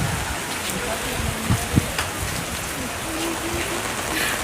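Rain falling: a steady hiss with scattered drops knocking on nearby surfaces.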